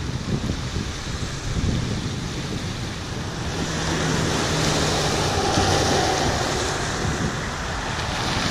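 Ocean surf washing in with wind buffeting the microphone, swelling louder midway; a faint low hum sits under it for a couple of seconds in the middle.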